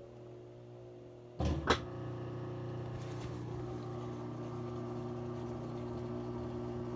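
Whirlpool top-load washer near the end of its cycle: two sharp clunks about a second and a half in, then a steady electric hum as a motor in the machine runs on.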